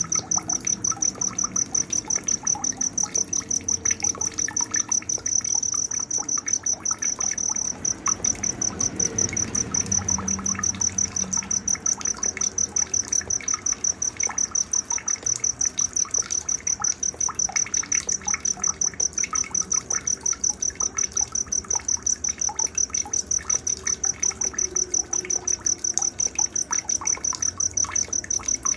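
Night-time nature sound of a cricket chirping in a steady, rapid, even pulse at a high pitch, with fainter scattered chirps underneath.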